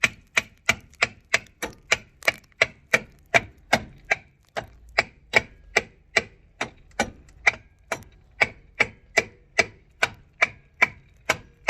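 Hand ratchet wrench clicking steadily, about two to three clicks a second, as a brake caliper bolt is being run out.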